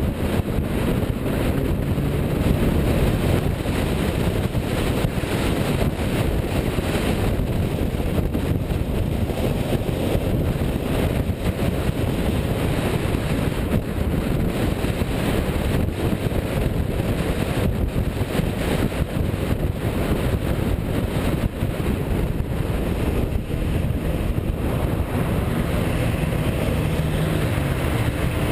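Car engine running steadily, a low rumble mixed with heavy wind noise on the microphone.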